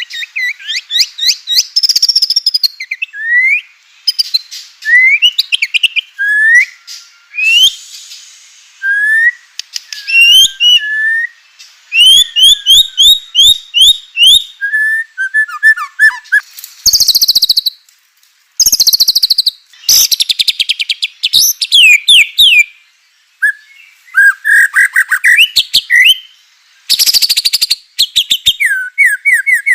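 White-rumped shama (murai batu) singing loudly and without pause: a fast run of varied, clear whistled phrases rising and falling in pitch, broken by rapid rattling trills.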